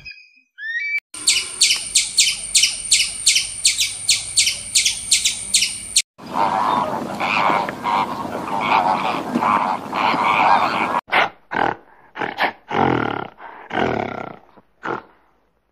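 A run of sharp, evenly spaced animal calls at about three a second, then a flock of flamingos calling together, a dense overlapping chorus. About eleven seconds in it changes to chimpanzee calls, several short separate cries with gaps between them.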